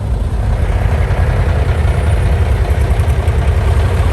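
A vehicle engine running close by at low speed, a steady deep rumble.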